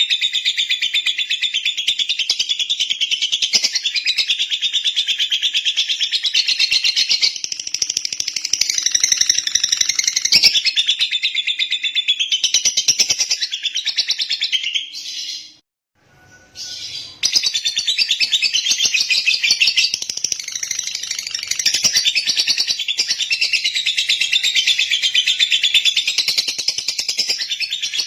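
Lovebird singing a long, rapid, unbroken stream of high chirps. It breaks off for about a second and a half a little past halfway, then carries on.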